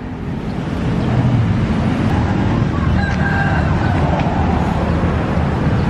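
A rooster crowing faintly about three seconds in, over a steady outdoor rumble.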